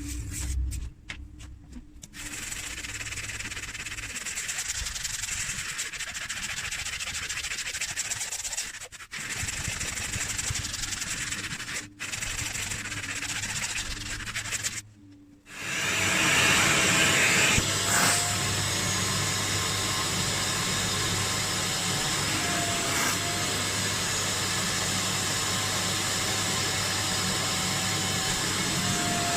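Kärcher Puzzi 10/1 spray-extraction vacuum running on a car seat: quieter hiss and motor noise broken by short gaps, then about halfway in a louder, steady motor run with a held whine.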